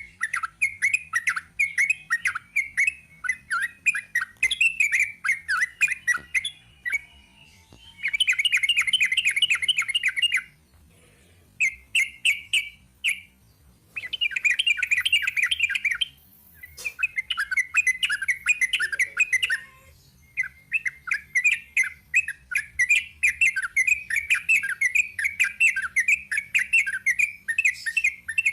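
Sooty-headed bulbul (trucuk) singing a long run of rapid chirping notes, with denser rattling trills about 8 and 14 seconds in, broken by a few short pauses.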